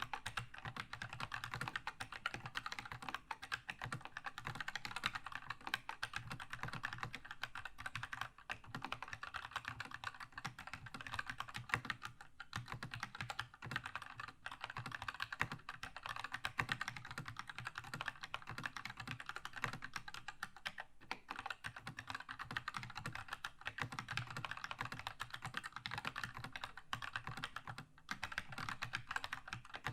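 Continuous fast typing on a Keychron K2 mechanical keyboard with red linear switches: a dense stream of light keystroke clacks with a low thock from the case, broken by a few brief pauses.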